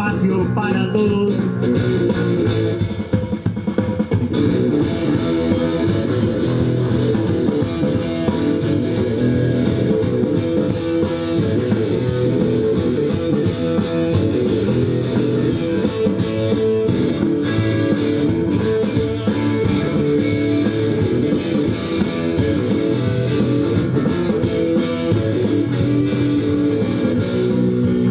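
Blues-rock band playing: guitar over bass and drum kit, at a steady loud level.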